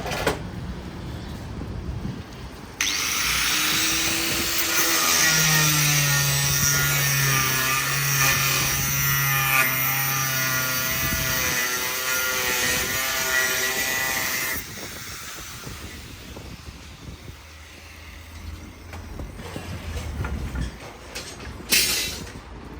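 A power tool running for about twelve seconds, starting and stopping abruptly, with its pitch wavering under load. A brief sharp knock comes near the end.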